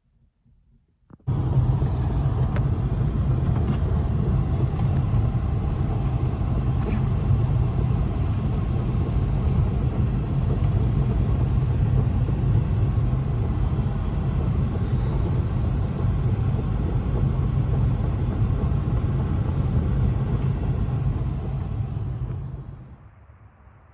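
Steady loud rushing noise with a heavy low rumble, cutting in suddenly about a second in and fading away near the end: strong blizzard wind buffeting the microphone.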